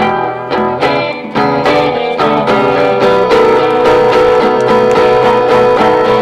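Blues band's instrumental break with a guitar playing a lead line of quick notes, settling into one long held, wavering note in the second half.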